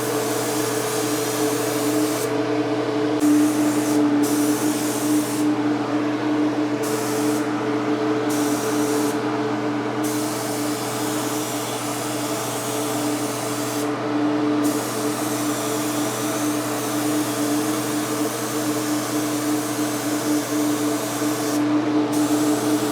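Mini spray gun hissing as it sprays kandy paint, the hiss cutting out briefly several times as the trigger is let off between passes, over a steady hum.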